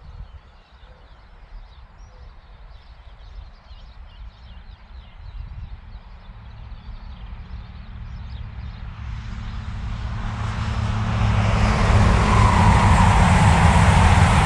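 Birds chirping faintly over a low rumble. About halfway in, a diesel express passenger train approaches at speed: its engine rumble and the rush of its wheels on the rails grow steadily louder, and they stay loud to the end.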